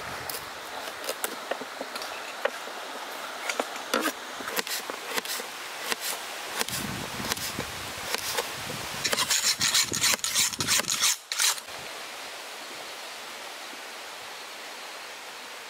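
Vegetables being cut with a knife: a run of quick taps and scrapes, densest from about nine to eleven seconds in. The cutting stops abruptly near the end and leaves a steady background hiss.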